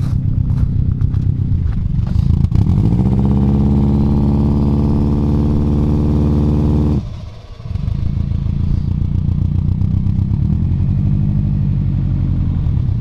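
Turbocharged flat-four engine of a modified Subaru WRX STI running hard in reverse, held at steady high revs for several seconds. It cuts out abruptly about seven seconds in, then picks back up and holds steady again.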